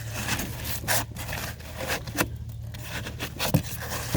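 Chisel scraping and prying at dry pour-in flotation foam, a run of irregular scraping and rubbing strokes as a thin section of foam is worked loose.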